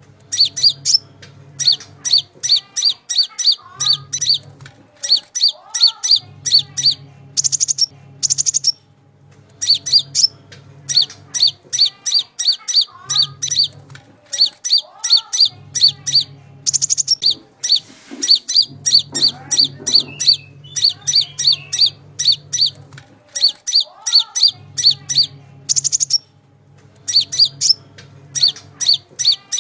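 Konin songbird calling: rapid runs of sharp, high chirps, about six a second, repeated in bursts of one to two seconds with short gaps, with a low hum beneath many of the bursts.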